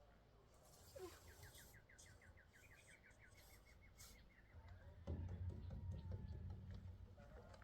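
A small bird's faint, rapid trill of short chirps, about eight a second for two seconds, followed from about five seconds in by a louder low rumble.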